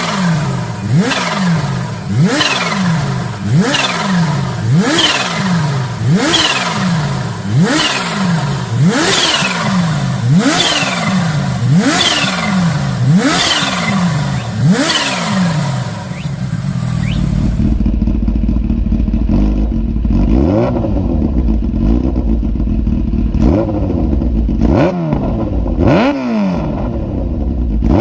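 Kawasaki H2's supercharged inline-four being revved in repeated throttle blips, each rising sharply and falling away, about one every second and a half. After about 17 seconds the sound turns duller, a lower rumble with a few smaller blips.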